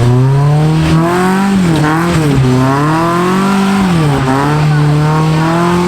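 Off-road truck engine revving hard at high rpm on a hill climb, the revs dipping and surging back up about two seconds in and again about four seconds in.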